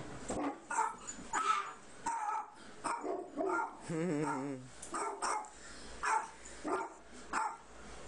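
A pet bird's repeated short calls, about two a second, with one longer wavering call about four seconds in.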